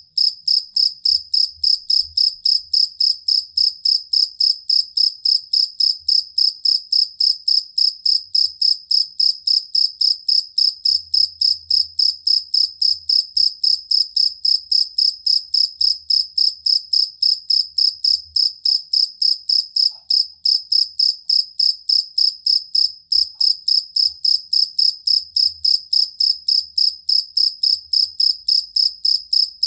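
Field cricket (jangkrik kalung, the collared or fighting cricket) singing: a loud, even train of short, high chirps, about three a second, with two brief breaks near the middle.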